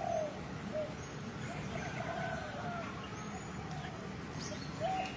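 Dove cooing, several short arched coos spaced over a few seconds, over a steady low background rumble.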